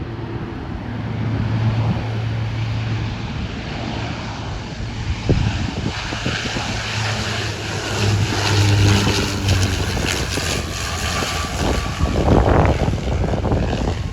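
Aircraft engines running, a steady low hum under a rushing noise that grows louder in the second half, with wind buffeting the microphone.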